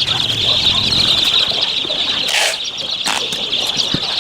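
Many chicks peeping together in a dense, steady, high-pitched chorus. About halfway through there is a brief rustling burst, followed shortly by a sharp knock.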